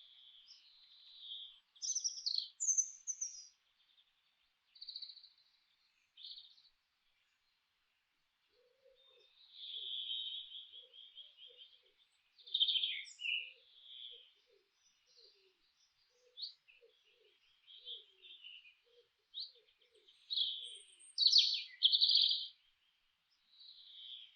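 Several forest songbirds chirping and trilling in short, high phrases with gaps between them. Faint short low notes run beneath through the middle.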